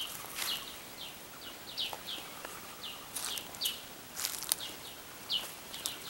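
Small birds chirping: a string of short, quick falling notes, a few each second, with scattered sharp crunches of footsteps on a dry, leaf-strewn dirt trail.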